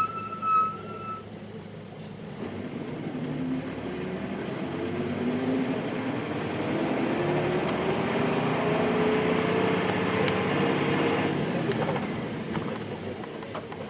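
Nissan Diesel Space Runner RM (KC-RM211) bus with its FE6 diesel engine pulling away and accelerating, heard from inside the bus; the engine note rises steadily in pitch for several seconds, then eases off near the end. A steady electronic tone sounds at the start and stops about a second in.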